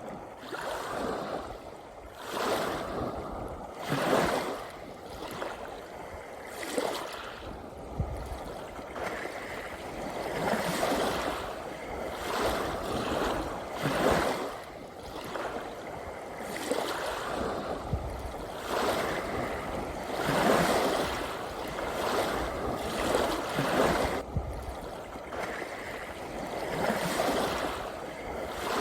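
Sea waves washing in and breaking, a steady rush of water that swells and fades every few seconds.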